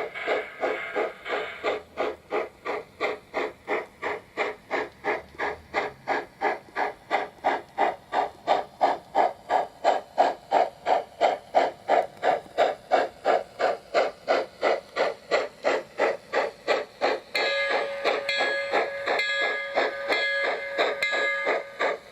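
Trix HO-scale Big Boy model steam locomotive running with its ESU LokSound decoder sound: a regular exhaust chuff, about three a second, coming steadily from the speaker. About three-quarters of the way through, a steady pitched tone joins the chuffing.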